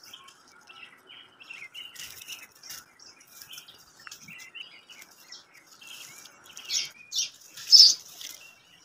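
Small birds chirping and twittering in quick, short notes, with three louder chirps near the end.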